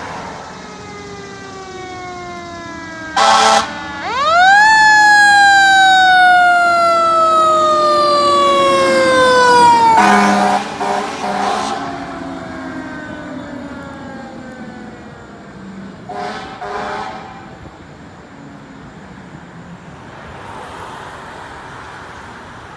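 Fire engine passing on a call: its siren rises sharply and then slowly winds down in pitch, broken by short air horn blasts, one about 3 seconds in, a cluster around 10 seconds and a pair near 16 seconds. The engine then fades away into road noise.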